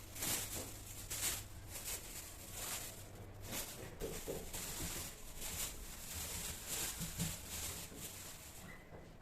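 Plastic shopping bags rustling and crinkling in irregular bursts as market groceries are handled.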